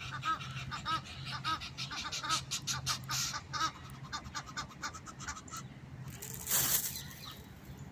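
Waterfowl calling in a quick run of short repeated calls, about three or four a second, that die away about five seconds in. Near the end comes a brief rush of noise.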